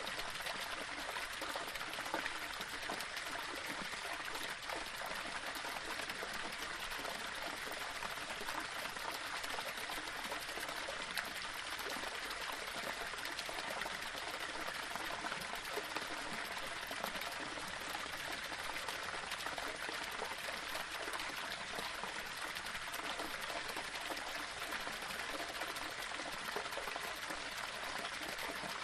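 Small waterfall: water running steadily over and between rocks, an even rush with a bright splashing quality and no change in level.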